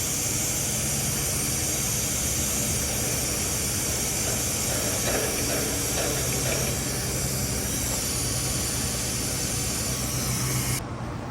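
Nitrogen hissing steadily out of an air conditioner's refrigerant lines as the test pressure is vented down to zero, with a steady low hum underneath. The hiss cuts off sharply near the end.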